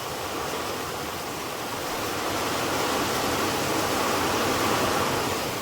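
Heavy monsoon rain pouring down in a steady, dense rush, swelling a little louder midway through.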